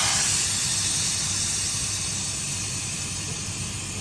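Semi truck's air brake system letting out compressed air in a long hiss that slowly fades, over the low hum of the idling diesel engine.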